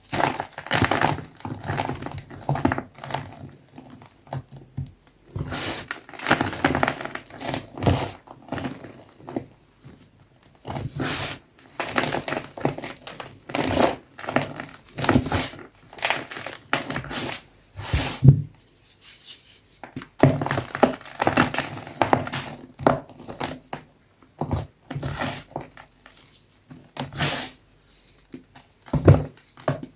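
Soft blocks of gym chalk crushed and crumbled by hand, in irregular bursts of crunchy crackling with short pauses between them.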